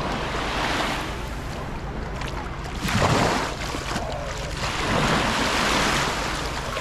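Sea waves washing onto the shore, swelling and falling away about three times, the biggest surge about three seconds in.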